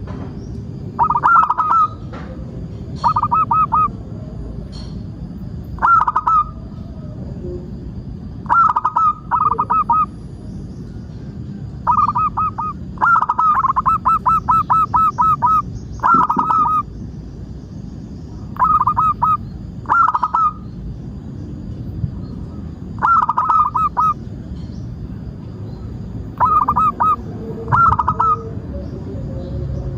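Zebra dove cooing: short bursts of rapid, staccato coo notes repeat every couple of seconds, with one longer run of notes about halfway through. A steady low background noise runs underneath.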